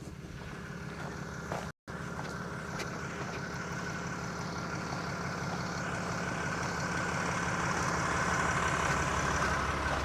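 Dually pickup truck's engine running under way, a steady low hum that grows slightly louder toward the end, cutting out for an instant about two seconds in.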